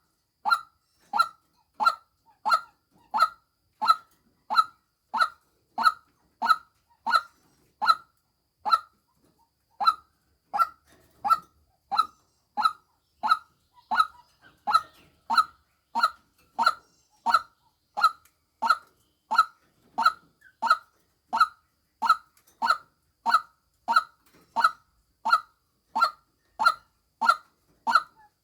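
Female white-breasted waterhen giving its lure call: a single short, slightly falling note repeated about one and a half times a second, with one brief pause about nine seconds in.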